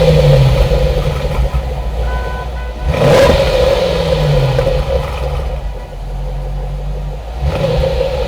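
Ford Thunderbird's 3.9-litre DOHC V8 being revved in neutral. A rev at the start falls away, a sharp blip comes about three seconds in, the engine settles briefly toward idle, and it rises again near the end.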